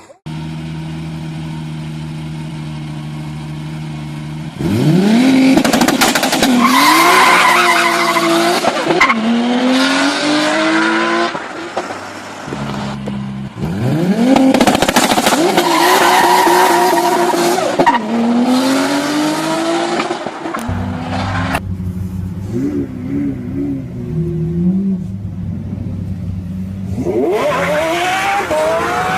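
Car engine idling steadily, then revving hard as the car accelerates, the pitch climbing and dropping back at each gear change; this happens twice, followed by a lower, uneven engine note and another climb near the end.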